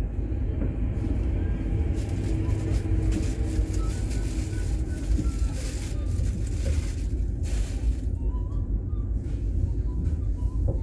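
Steady low rumble of a 25T passenger coach running along the track, heard from inside the carriage. A brighter hiss joins it for several seconds in the middle and cuts off suddenly.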